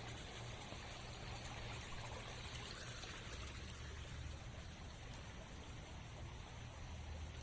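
Steady rushing of water in a rainy forest, rain and running water together, with a low rumble underneath.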